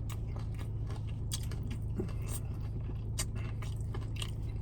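Close-miked chewing of tortilla-chip nachos, with several sharp crunches and mouth clicks spread through it. A steady low hum runs underneath.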